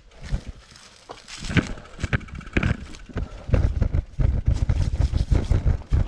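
Horse hooves walking, an irregular run of thuds and knocks, with low rumbling on the microphone that gets heavier from about halfway through.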